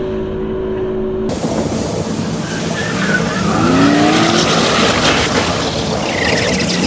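Jet ski engine running at speed under a loud rush of wind and water. The engine pitch rises about four seconds in as it speeds up.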